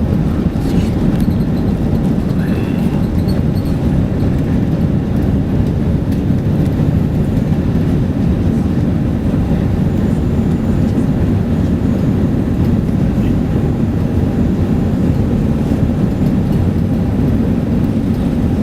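Four Rolls-Royce Trent 900 jet engines of a Lufthansa Airbus A380 at takeoff power, a loud, steady low rumble that does not rise or fall.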